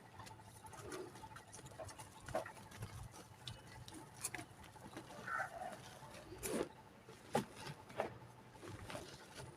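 Dried mud cake crumbling: scattered faint crackles and small breaks of dry clay. Short faint calls, likely an animal, come and go in the background, several of them in the second half.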